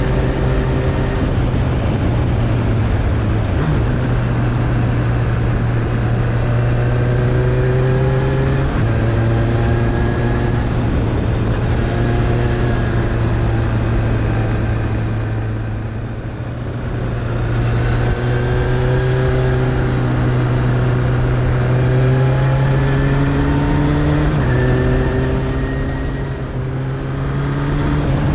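Suzuki Bandit 1200's inline-four engine pulling steadily on the road, over a constant rush of wind noise. Its pitch climbs slowly and shifts in steps several times, and the engine eases off briefly about halfway through.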